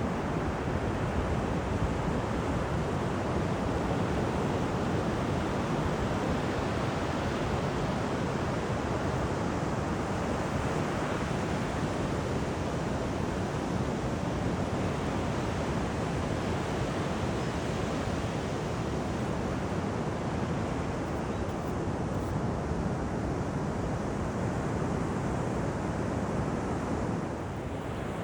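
Steady rush of ocean surf breaking on a beach, mixed with wind buffeting the microphone.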